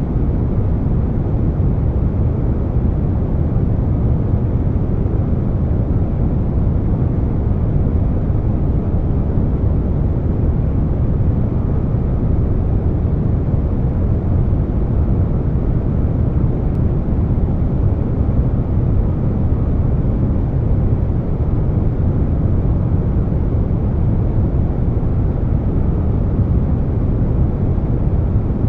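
Continuous air conditioner noise blended with brown noise: a steady, even rush weighted toward the low end, with no changes.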